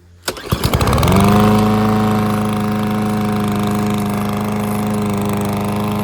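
Remington mower's 140cc Powermore overhead-valve engine starting: a few uneven firing strokes, then it catches about a second in and settles into a steady run.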